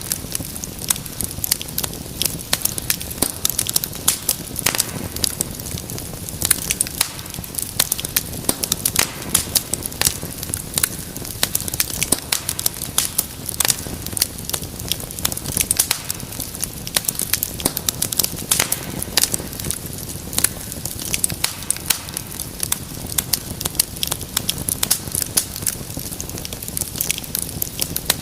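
Wood fire crackling steadily: many sharp, irregular pops and snaps over a low, steady rumble of burning.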